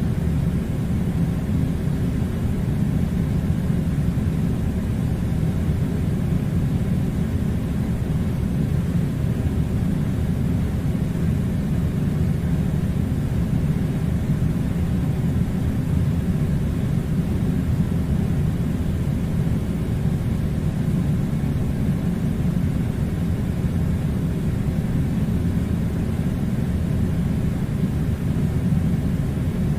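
Steady, unchanging low rumbling drone, even from start to finish with no rhythm or change in pitch.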